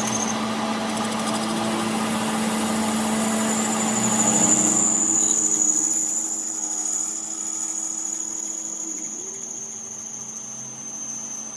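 A tractor engine running steadily, with a high whine that comes in about four seconds in while the sound slowly fades.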